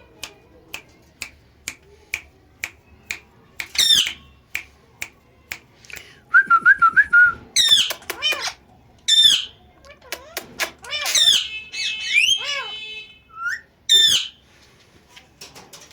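Ringneck parrot whistling and squawking, with loud curving whistled calls and a quick warbling trill. Before it, a run of sharp clicks about two a second.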